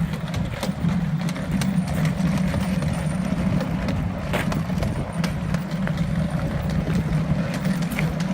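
A 7.25 inch gauge miniature railway train running along its track: a steady engine drone with occasional short clicks.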